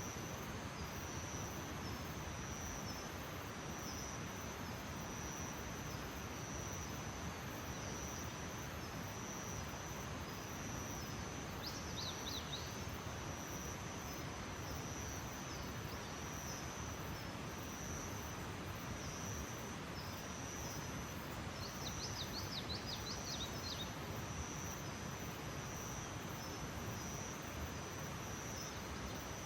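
Outdoor nature ambience: a steady high-pitched insect trill over even background noise, with brief bursts of bird chirps about twelve seconds in and again a little past twenty seconds.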